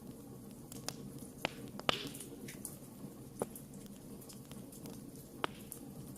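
Burning wood in a campfire crackling: sharp, irregular pops about once a second, the loudest about two seconds in and followed by a brief hiss, over a steady low background of the fire.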